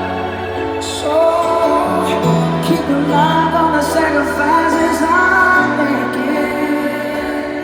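Live pop ballad: a singing voice carries a slow melody over long held bass notes, recorded from the crowd at a stadium concert.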